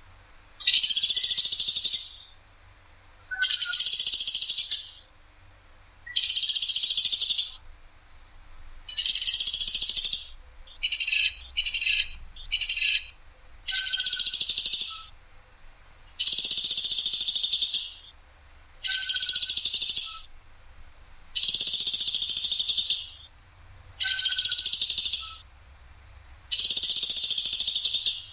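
Platuk sampit (pelatuk sampit) bird giving loud, harsh, sharp calls, each about a second long and repeated every two to three seconds, with a quick run of three short calls near the middle.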